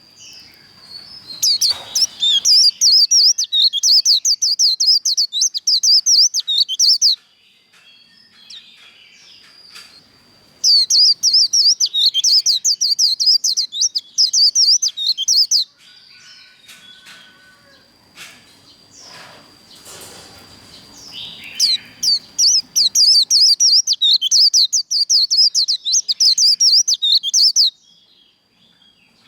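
White-eye (vành khuyên) singing its fast, chattering 'líu' song in three long bursts of rapid high notes, each lasting about five to six seconds, with short pauses between them.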